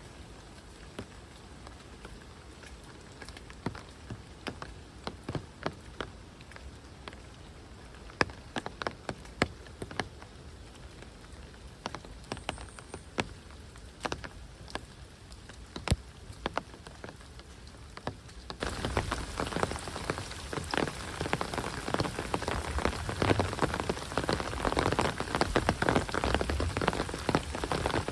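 Rain: heavy separate drops strike at irregular intervals over a faint background hiss, then about two-thirds of the way through the sound abruptly thickens into a dense, louder downpour patter.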